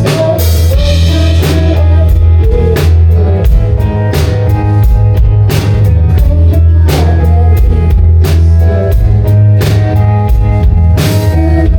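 Live rock band playing: a drum kit beating out a steady rhythm with bass drum and cymbal hits over heavy bass and guitar.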